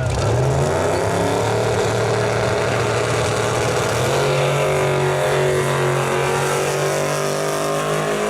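Drag-race car engine running hard and steady, its pitch dipping briefly and recovering about halfway through.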